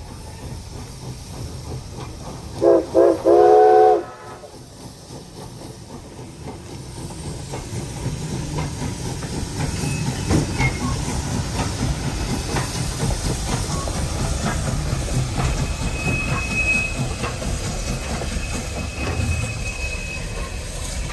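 A 1920 Alco steam locomotive's chime whistle sounds two short toots and a longer blast. The train then gets rolling, its rumble and rail clicks growing louder and settling into a steady run.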